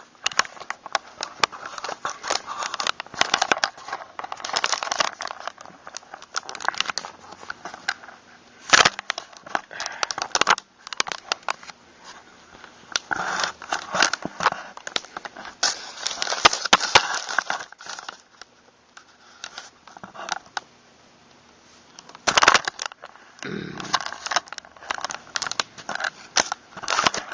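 Hands handling and working a pump-action shotgun: a long run of small clicks, scrapes and rustles, with a few sharper knocks along the way.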